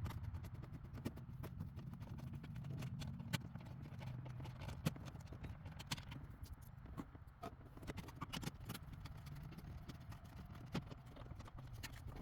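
Irregular clicks and taps of hands and tools handling plastic and metal dash parts, over a low steady hum.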